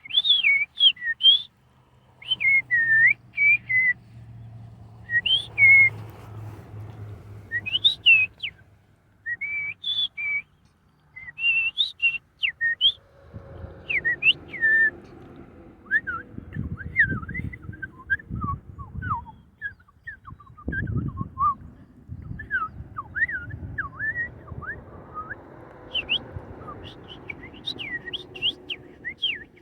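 Birds chirping and whistling in quick, short notes that rise and fall, almost without pause. A low rumbling noise runs underneath, strongest in the middle.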